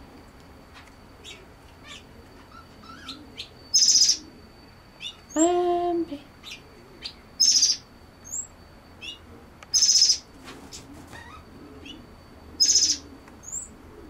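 Aviary birds calling: a short, loud, high call repeated four times about every three seconds, with scattered thin high chirps between. About five seconds in comes one lower, drawn-out call with a clear pitch.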